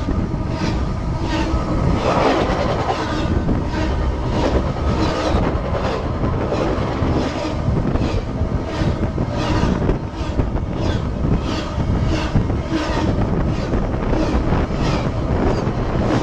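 Train cars rolling directly over the track, heard from between the rails underneath: a loud, steady rumble with rhythmic clicks about twice a second.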